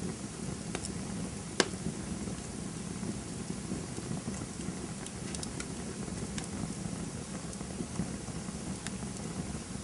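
Campfire burning with a steady low rush of flames and scattered sharp crackles and pops. The loudest pop comes about a second and a half in.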